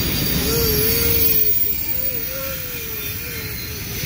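Double-stack container freight train rolling past: a steady rumble of wheels on rail, with a thin, wavering wheel squeal starting about half a second in.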